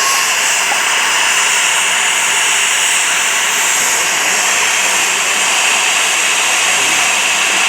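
Steam locomotive letting off steam: a steady, loud, high-pitched hiss with no chuffing rhythm.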